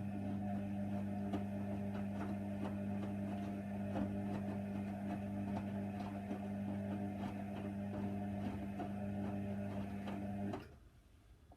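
Hoover Nextra HNWL 7146 washer dryer running on its Cotton 60 wash: a steady mechanical hum with a scatter of light clicks, which cuts off abruptly about ten seconds in.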